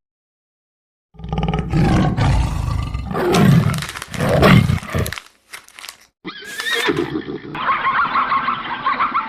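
Animal calls. A loud, low call lasts about four seconds after a moment of silence, then a higher-pitched call follows from about two-thirds of the way in.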